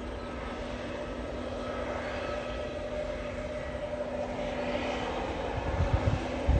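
Airbus A321neo's Pratt & Whitney geared turbofan engines running, a steady jet whine over a broad rushing noise that slowly grows louder. Low gusty rumbles come in near the end.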